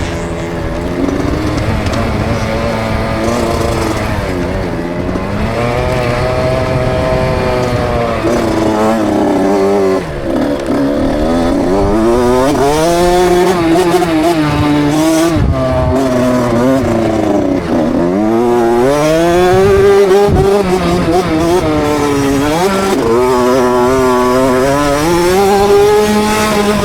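KTM 65 SX single-cylinder two-stroke motocross engine revving hard and falling back again and again, its pitch rising and dropping every few seconds as the throttle opens and closes around the track.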